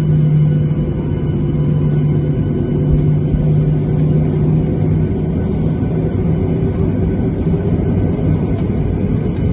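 Steady rumble of a Boeing 737-800's CFM56 engines heard inside the cabin, with a low engine hum that fades about halfway through.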